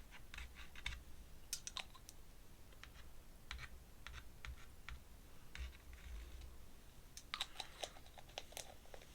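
Paintbrush dabbing watercolour paint onto paper: faint, irregular light taps and clicks, bunched into a quick flurry near the end.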